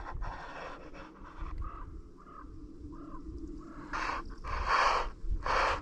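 Wind rumbling on the microphone, with a bird giving a few short calls. Louder rushes of wind noise come near the end.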